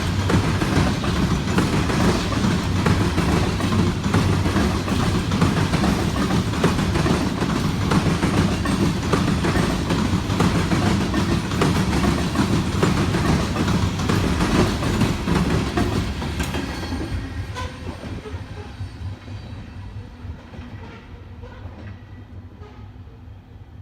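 Freight train cars rolling past, steel wheels clicking over the rail joints. About 16 seconds in, the sound starts to fade steadily as the end of the train moves away.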